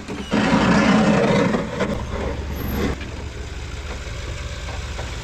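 Snowplow vehicle's engine running, with a loud rough rushing noise for the first few seconds that stops abruptly about three seconds in, leaving the engine's steady low hum.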